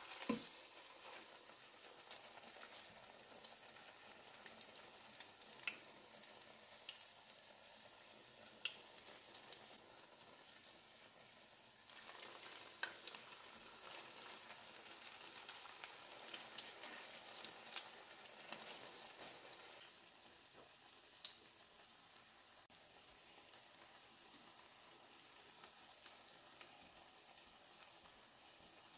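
Vegetable fritters shallow-frying in oil in a nonstick pan: a faint, steady sizzle with scattered crackling pops. There is a sharper burst right at the start, and the sizzle grows a little louder for several seconds midway.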